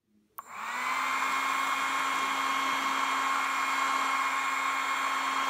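Small DC motor of a homemade bottle-cap mini vacuum cleaner switched on with a click, spinning up within half a second and then running with a steady high whine.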